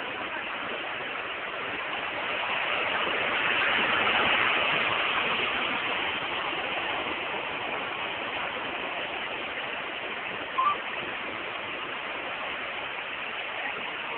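Steady rush of fast-flowing floodwater, swelling a few seconds in, with a short sharp sound about ten seconds in.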